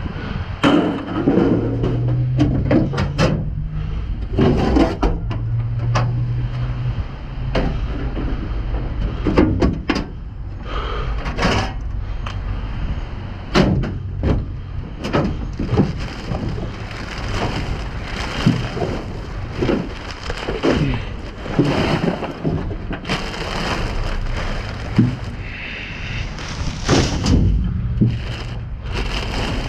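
Scrap metal and debris being shifted and pulled out of a dumpster: irregular clanks, knocks and rattles, one after another.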